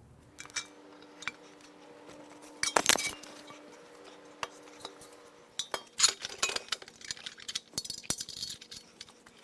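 Metal clinks and clanks of exhaust parts, bolts and hand tools being handled during muffler installation, with a louder cluster about three seconds in and a busy run of rattling clicks in the second half. A faint steady hum runs underneath.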